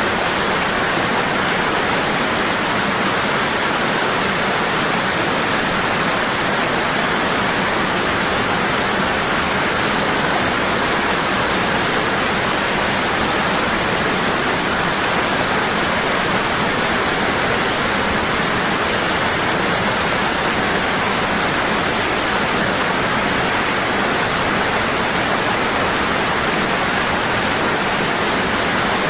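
Waterfall falling hard and steadily: an even, unbroken rush of water.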